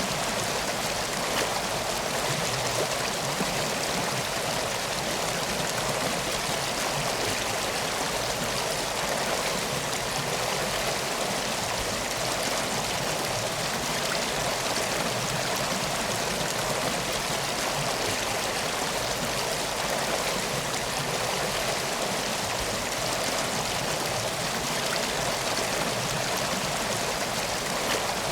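Steady rushing of a river flowing, an even unbroken sound of moving water.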